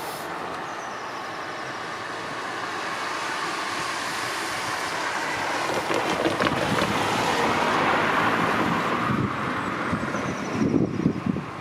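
A vehicle passing close by, its noise swelling to a peak and then fading, with wind buffeting the microphone near the end.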